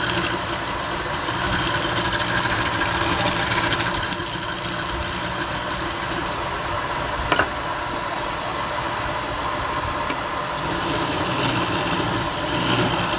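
A woodworking machine running steadily, with a single sharp click about seven seconds in.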